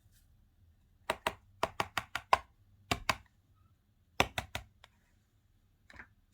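Sharp, quick taps or clicks in three short clusters, the last a lone faint one near the end.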